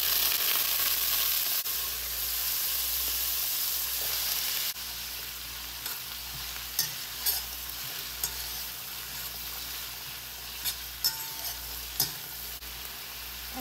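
Diced potatoes and shredded cabbage sizzling in hot coconut oil in a stainless steel pan. The sizzle is loudest for the first few seconds and drops to a lower steady hiss about five seconds in. A few sharp clicks and taps come in the second half.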